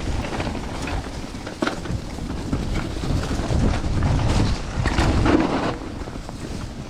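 Bike riding over a rough, muddy trail: a low rumble of tyres and frame, with wind buffeting the camera microphone and a few sharp knocks.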